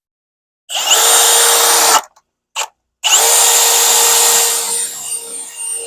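Power drill boring in two bursts with a steady motor whine: about a second long, a brief blip, then a longer run that tails off near the end.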